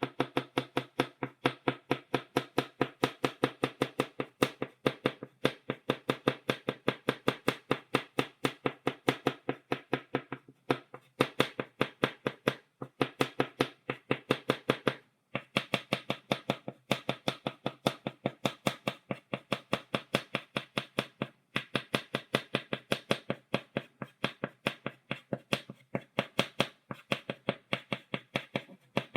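Chalk tapping dots on a blackboard: rapid, even taps, several a second, broken by a few short pauses.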